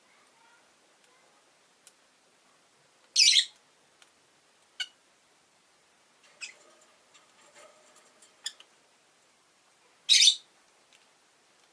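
Rosy-faced lovebirds calling: two loud, short, shrill calls about seven seconds apart, with softer chirps and clicks between them.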